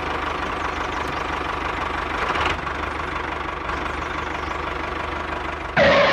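A small motor of a DIY miniature tractor running steadily with a constant whine. A sudden louder sound breaks in near the end.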